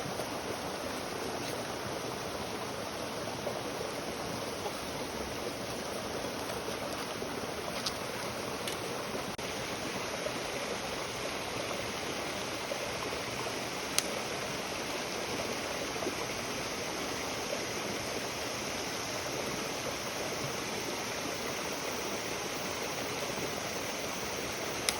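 Wood campfire burning with a steady rushing hiss and a few single sharp pops, about eight and fourteen seconds in.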